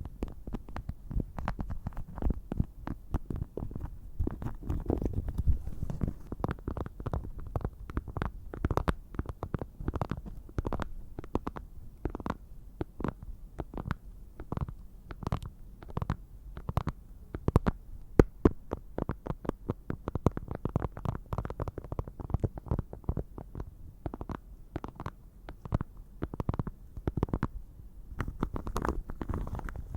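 Rapid, irregular tapping and clicking on a small case made of fused plastic iron beads, handled for ASMR.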